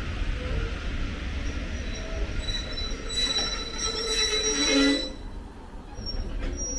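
A locomotive-hauled charter train's wheels and brakes squealing as it draws to a stop, over a low rumble. The squeal cuts off sharply about five seconds in, as the train comes to a stand.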